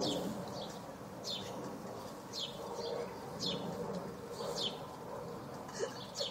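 A bird repeating a short, high, falling chirp, about one a second, six times, over a low steady background.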